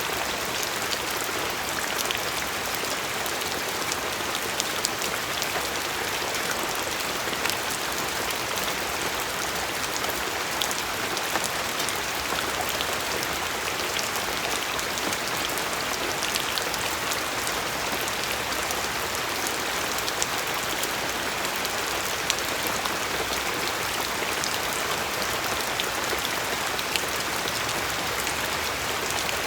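Steady rain falling, an even hiss with many scattered drops pattering on a surface, some of them louder individual plinks.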